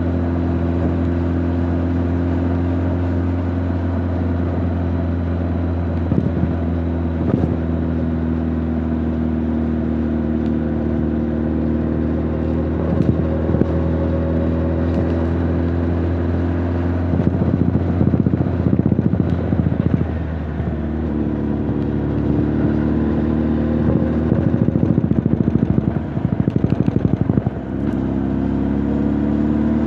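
Honda CB1300 Super Bol d'Or's inline-four engine and exhaust running on the road, heard through the rider's back: a steady low note at first, then a little past halfway the pitch shifts up and down a few times with patches of rapid pulsing, and it rises near the end.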